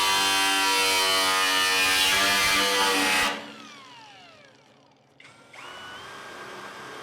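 A power tool runs with a loud, steady whine and is switched off about three seconds in, its pitch falling as it winds down. A couple of seconds later a power tool starts up and settles into a steady high whine.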